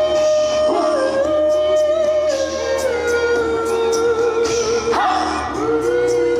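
Small student-style choir singing a cappella in harmony, the voices holding long sustained notes that shift pitch together every second or two.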